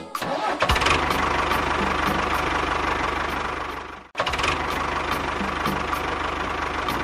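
Engine running steadily with a low rhythmic chug. It cuts out briefly about four seconds in and picks up again.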